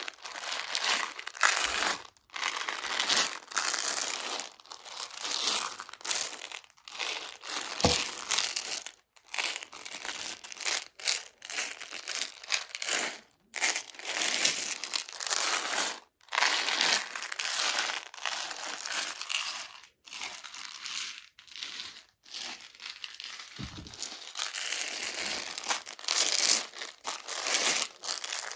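Crinkling and rustling from handling a pack of Meiji Choco Baby chocolates. It comes and goes irregularly with short pauses.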